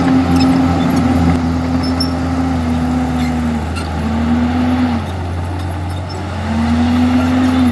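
Komatsu D51EX bulldozer's diesel engine running under work. Its pitch sags twice as it takes load, near the middle and again later, then climbs back up.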